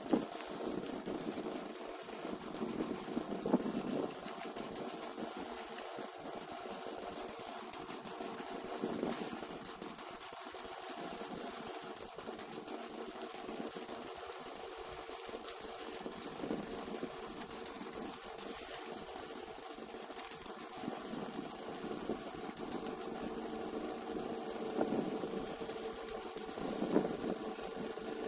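Snowblower engine running steadily, with brief swells in its sound now and then as it takes on snow.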